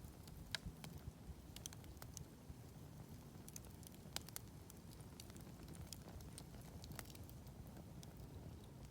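Wood campfire crackling faintly: scattered small irregular pops and snaps, one a little louder about four seconds in, over a steady low rumble.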